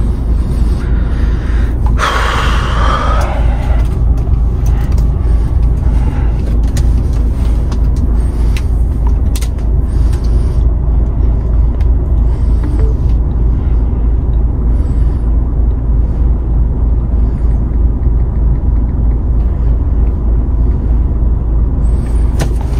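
DAF XF 510 truck's diesel engine running with a steady low rumble, with a short hiss about two seconds in.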